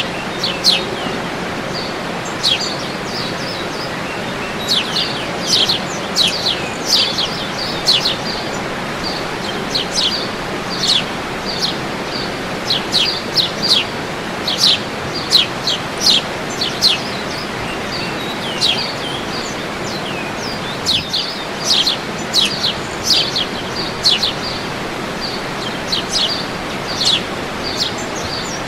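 Birds chirping over and over in short, quick, high notes that sweep downward, set against a steady rushing noise.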